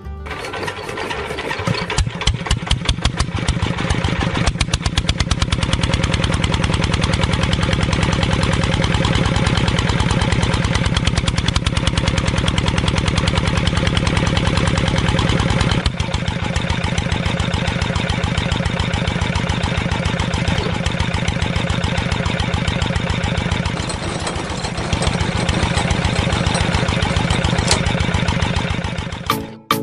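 A small engine firing in a fast, even beat, picking up speed over the first couple of seconds and then running steadily, with a brief break about halfway through.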